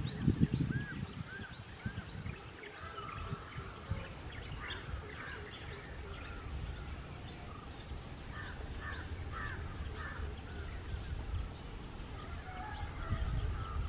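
Several birds calling and chirping in open country: many short calls overlap, with a few short arching calls about a second in. A low rumbling noise sits under the calls at the start and again near the end.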